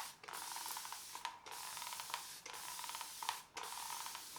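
Filarmonica 4/8 straight razor scraping through lather and stubble on the face, in about four strokes of roughly a second each with short pauses between.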